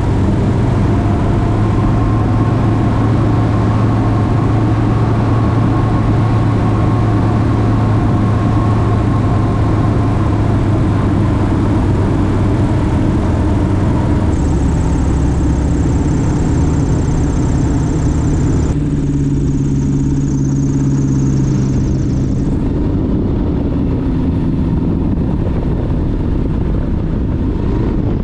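Single-engine light aircraft engine and propeller droning steadily in flight. The tone changes abruptly twice, about halfway through and again a few seconds later.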